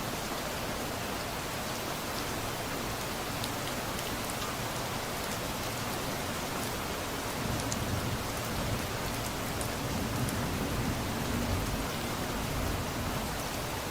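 Steady rain falling, with scattered drop ticks. A low rumble of distant thunder swells in the second half and fades again.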